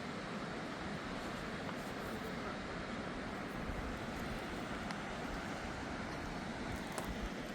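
Fast river water rushing steadily, with a few faint clicks near the end.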